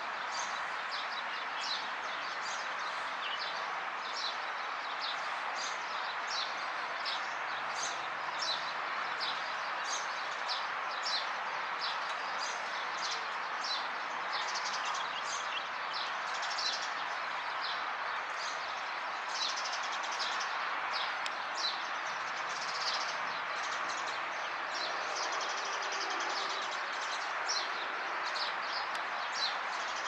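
Birds chirping: a continuous run of short, high chirps, several a second, over a steady hiss.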